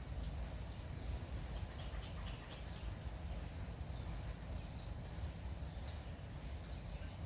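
Light morning rain ambience: a steady hiss over a low rumble, with small birds chirping now and then.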